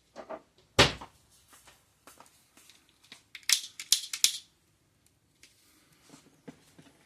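A sharp knock about a second in, then a lighter struck several times in quick succession, short scratchy bursts, to light the wicks of a methylated-spirits burner, with light handling clicks around it.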